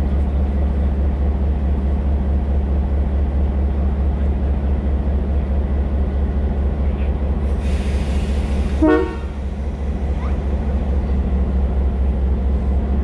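A train running with a steady low rumble. About nine seconds in, a rush of hiss comes, followed by a brief horn toot.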